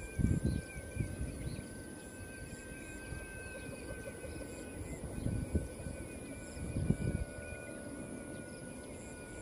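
Outdoor wind buffeting the microphone in irregular low gusts, the strongest about a third of a second in, around five and a half seconds and around seven seconds, over a faint steady high-pitched whine.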